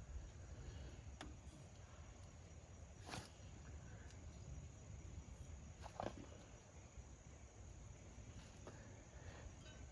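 Near silence with a low rumble and a few faint, sharp clicks and knocks, about three seconds apart, the clearest about three seconds in: small metal parts being handled during brake work.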